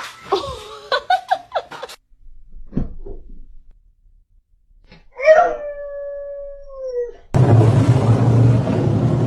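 A dog giving short whining yips, then one long howl about two seconds long that drops in pitch at the end. Music cuts in suddenly near the end.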